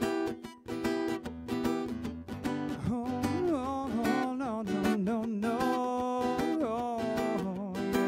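Acoustic guitar strumming chords in a live song intro; about three seconds in, a voice comes in holding long, wavering notes over the guitar.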